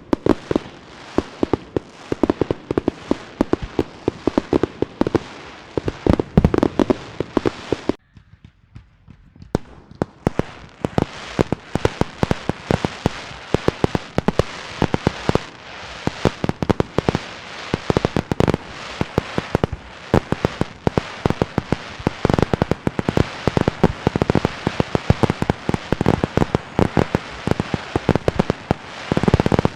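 Fireworks and firecrackers going off in rapid, dense volleys of sharp cracks and pops. The bangs pause briefly about eight seconds in, then resume just as dense.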